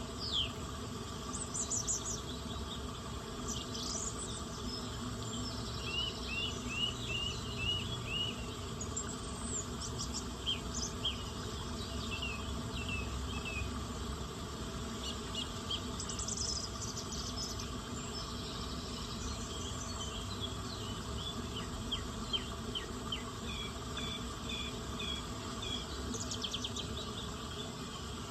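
Nature ambience: songbirds calling in runs of short, quick chirps over a steady insect drone.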